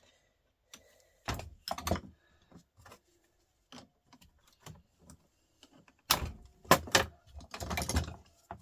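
Metal tools knocking and clattering against the steel casing of a heavy truck starter motor as it is worked on: two separate knocks early in the clip, small ticks, then a quick run of clanks near the end.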